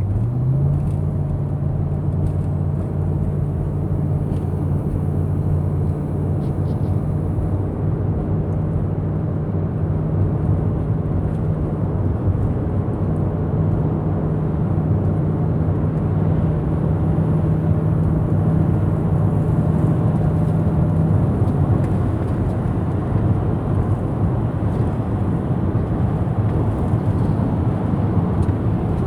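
A truck engine runs steadily, heard from inside the cab as a low, even hum. Its pitch steps up slightly just after the start, and the higher tone fades out about twenty seconds in.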